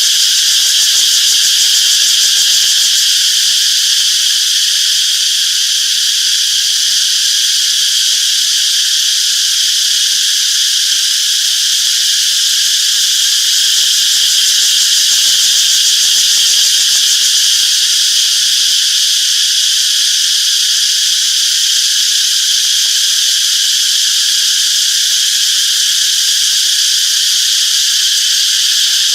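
Cicadas in chorus: a dense, steady, high-pitched buzzing drone that holds without a break.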